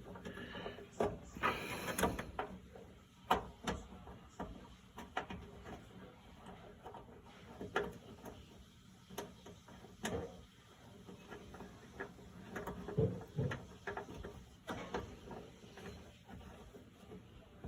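Irregular light clicks and knocks of dryer parts being handled and fitted into place by hand.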